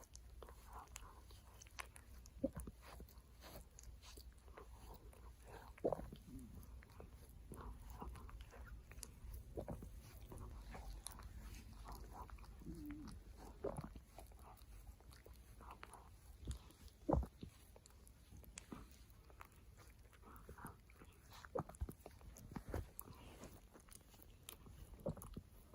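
A dog licking skin, making soft, irregular wet smacking and lapping sounds, with a few louder smacks, the loudest about seventeen seconds in.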